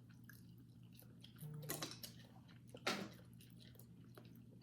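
A person chewing a chewy crab-stick snack, with soft wet mouth sounds and two louder bites or smacks, one at about a second and a half and one near three seconds.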